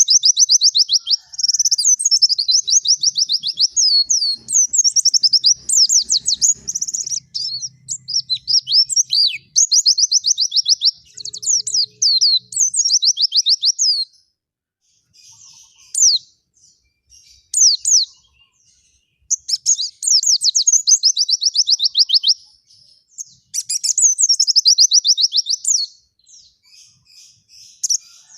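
Small songbird singing fast, high trills in bursts of a few seconds, each made of rapidly repeated notes. Around the middle it drops to a few scattered chirps before the trilling starts again.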